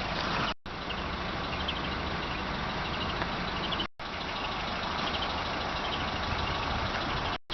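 1997 Honda Accord's four-cylinder engine idling steadily, heard from outside the car. The sound drops out for a split second three times.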